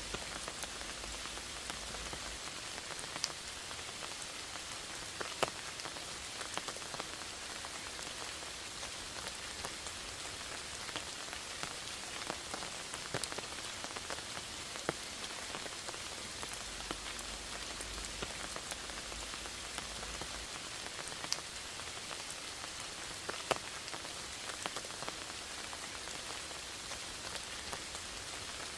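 Steady rain falling in a forest: an even hiss, with scattered louder single drops landing close by.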